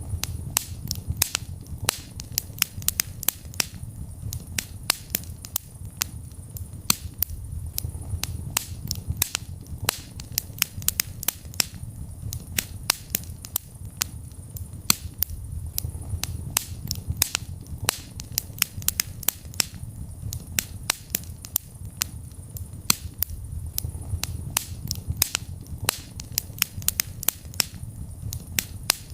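Wood fire burning in a fireplace: dense, irregular crackling and popping, several sharp pops a second, over a low rumble of flames that swells and eases every few seconds.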